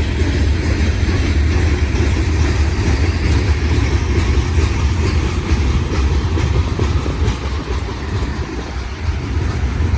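Union Pacific freight train rolling past, its cars making a loud, steady rumble on the rails with faint clicking of wheels over rail joints; it eases slightly about three-quarters of the way through.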